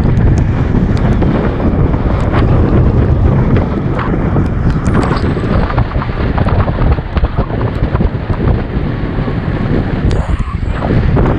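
Wind buffeting the microphone of a camera riding along on a moving bicycle: a loud, steady rushing noise.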